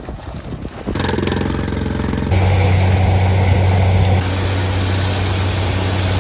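Borewell drilling rig running: a loud, steady engine drone that starts suddenly about a second in and grows louder and deeper a moment later.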